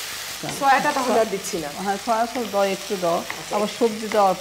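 Chicken strips sizzling in hot oil in a non-stick wok, stirred with a wooden spatula, with a woman's voice talking over the sizzle from about half a second in.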